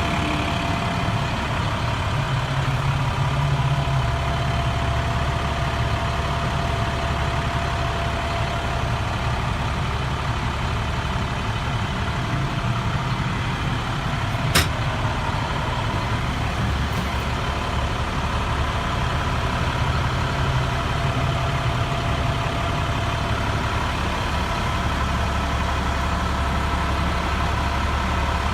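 Diesel engine of a 2013 International 4400 dump truck, a MaxxForce DT inline-six, idling steadily with no change in speed. A single sharp click about halfway through.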